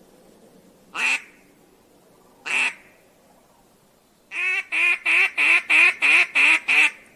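Mallard-style duck call blown by a hunter: two single quacks, then a run of about eight quacks at roughly three a second. This is the hen-mallard calling used to draw passing ducks in.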